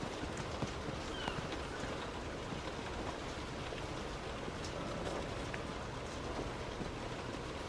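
Heavy rain hitting a moving car: a steady hiss with scattered ticks of drops, over a low road rumble.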